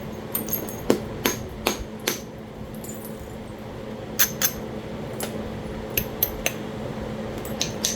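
Flintknapping: a Talahata quartzite preform being struck to remove flakes, about a dozen sharp clicking strikes in irregular bunches, with a pause of about two seconds in the middle.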